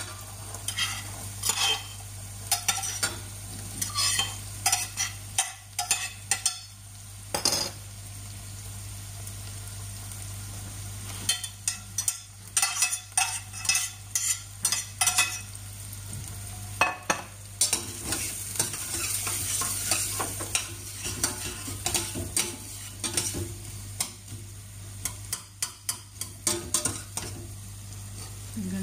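Corn kernels and spring onion sautéing in a stainless steel saucepan: a light sizzle with many sharp clicks and scrapes of a utensil stirring against the pot. A steady low hum runs underneath.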